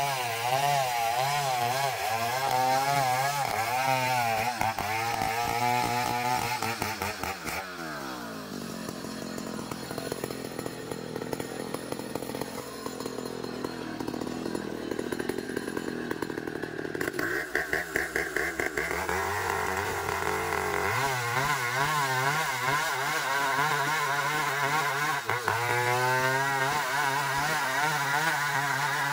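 Two-stroke chainsaw cutting an ironwood (ulin) log, its engine note wavering under load. About seven seconds in the engine drops off to a lower idle. Around seventeen seconds it revs back up and runs under load again.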